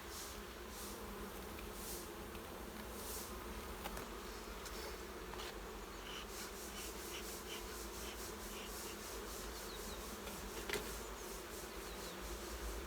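Honeybee colony buzzing steadily around an open hive, with a single sharp click about eleven seconds in.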